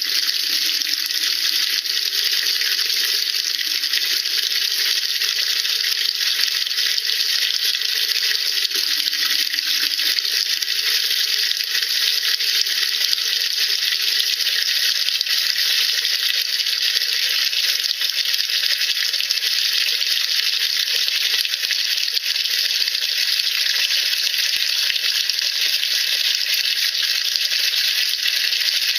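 Steady dense fizzing and crackling of tiny bursting bubbles, typical of sodium percarbonate reacting in hot water in a washing machine tub as it soaks loose grime.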